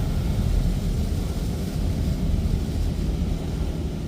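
PDQ LaserWash 360 touchless car wash running between its pre-soak and high-pressure rinse: a steady low rumble with a fainter hiss of spray.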